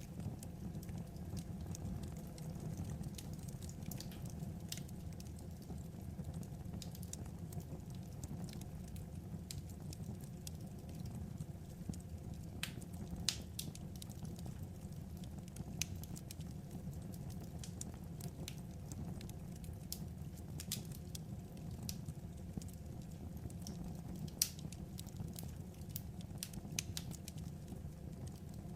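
Wood fire burning: a steady low rumble with sparse, irregular sharp crackles and pops, a few louder than the rest.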